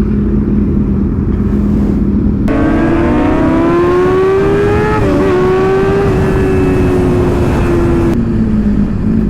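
Sport motorcycle engine running at a steady cruise under wind rush, then about two and a half seconds in the throttle opens and the engine note climbs. It dips briefly about halfway, holds and slowly sinks, and settles back to a steady cruise near the end.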